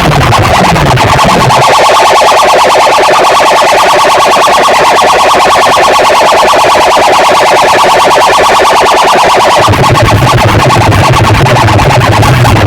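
Large DJ speaker system playing electronic sound effects at very high volume during a sound check for a sound competition. Falling bass sweeps give way to a fast-pulsing buzzy tone, and a pulsing deep bass comes back in near the end.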